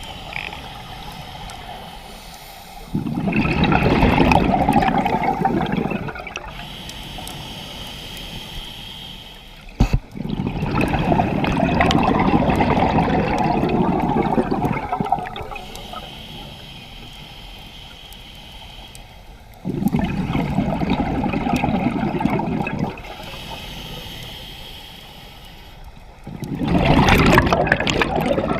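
Scuba diver breathing through a regulator underwater: four long bursts of exhaled bubbles, each lasting a few seconds, alternating with quieter hissing inhalations. A single sharp click comes about ten seconds in.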